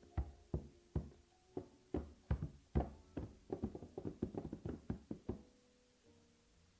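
A run of irregular knocks or thumps, about two to three a second, some leaving a faint ringing; they stop a little after five seconds in.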